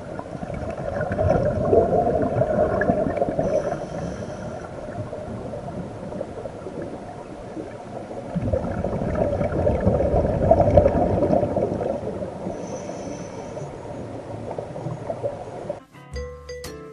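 Underwater sound of a diver breathing: exhaled air bubbling and gurgling in two long swells about eight seconds apart, with brief faint hisses in between.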